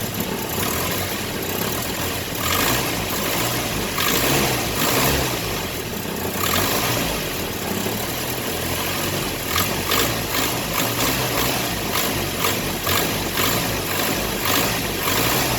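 1961 Land Rover Series II's 2.25-litre petrol four-cylinder engine running in freezing cold, with a tapping that comes and goes. The owner thought the tapping was the rockers, after first fearing a rod knock.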